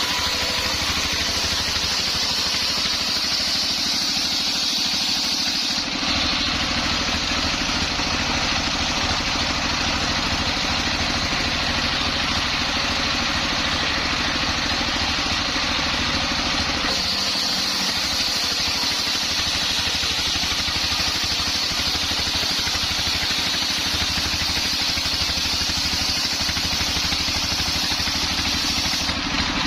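Homemade circular sawmill running steadily, its blade cutting through a very hard coconut-palm log. The sound changes abruptly about 6 seconds and again about 17 seconds in.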